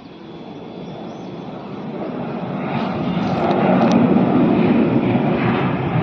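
Aeroplane engines during takeoff, a broad noise that builds steadily for about four seconds and then holds loud.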